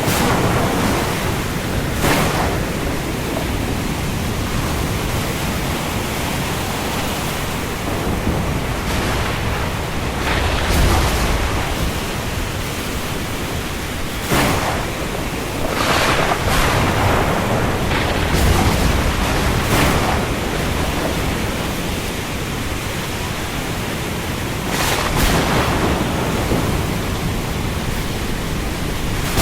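Heavy rain falling on the open sea: a dense, steady hiss that swells briefly several times.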